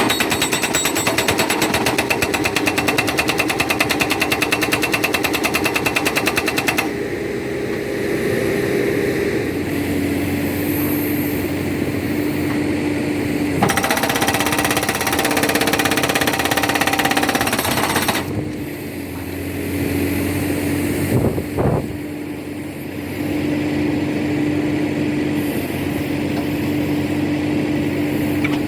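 Hydraulic rock breaker on a backhoe hammering in rapid, even blows, stopping after about seven seconds and running again for a few seconds around the middle. Between the bursts the backhoe's engine runs steadily.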